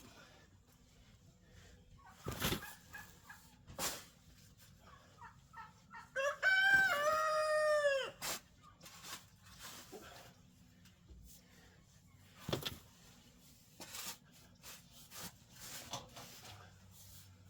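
A rooster crows once, about six seconds in, a single call lasting about two seconds. Around it come soft clucks from the flock and a few sharp knocks.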